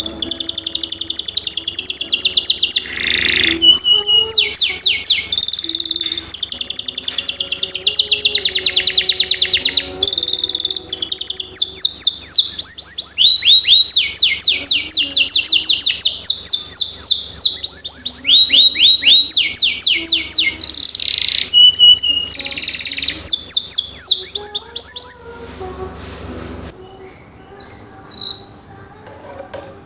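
Canary singing a long, loud song of fast repeated trills and rolls, the kind of song used as a lure to start young canaries singing. The song stops about 25 seconds in, leaving only a few faint notes.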